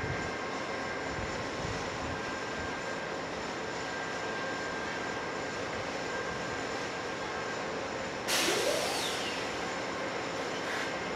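Amtrak passenger train sounding steadily with a faint high whine. About eight seconds in comes a sudden loud hiss that fades within about a second.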